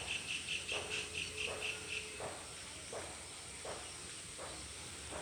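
Insect chorus at a pond: a rapid trill of about ten pulses a second that stops about two seconds in, over a steady high-pitched hum, with soft low pulses under a second apart.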